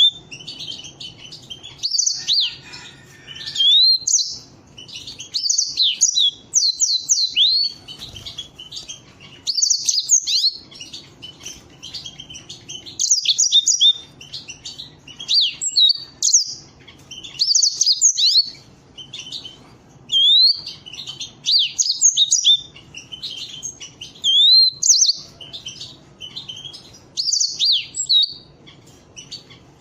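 Canaries singing in short phrases of quick high chirps and swooping whistles, one phrase every one to two seconds.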